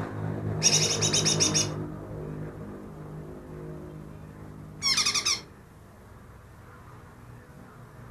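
Green leafbird (cucak ijo) singing two short bursts of rapid repeated chattering notes, the first about a second long starting just after the beginning, the second briefly around five seconds in. A low steady hum fades out over the first two seconds.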